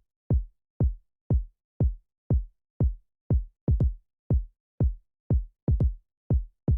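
Electronic music intro: a lone drum-machine kick drum beating steadily about twice a second, with a quick extra hit before some beats and silence between them.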